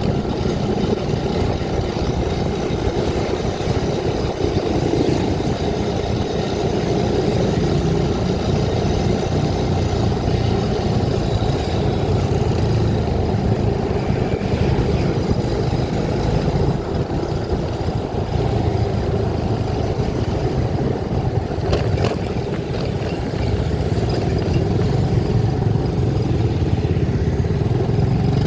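Steady engine and road noise of a vehicle being driven, with a single short click about 22 seconds in.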